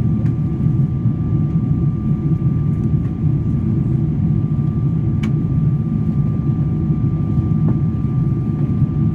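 Steady airplane cabin noise in flight: a loud, even low rumble with a faint constant whine above it, and a few light clicks.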